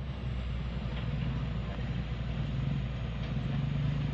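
Heavy-equipment diesel engine running steadily with a low hum that grows louder about three and a half seconds in.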